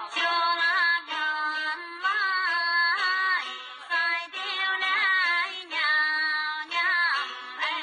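Music: a high woman's voice singing a Dong folk-style melody in short phrases of about a second, with held notes that bend and slide between pitches.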